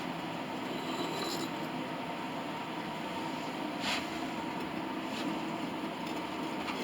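Steady machine hum with a faint constant tone, broken by a few light clicks, one a little louder about four seconds in.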